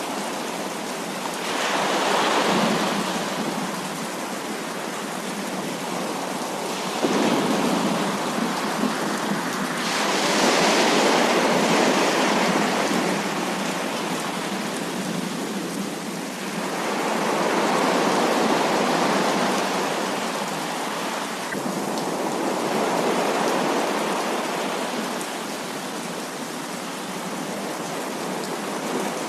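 Heavy rain falling as a steady hiss, with several slow swells of rolling thunder: one about two seconds in, a longer one that starts sharply about seven seconds in, and two more in the second half.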